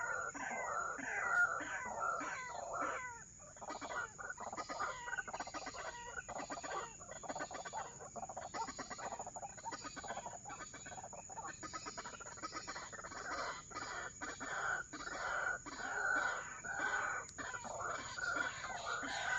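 White-breasted waterhens calling: a long run of short, clucking notes repeated several times a second, swelling and fading in loudness, with a brief lull a few seconds in. A steady high whine runs underneath.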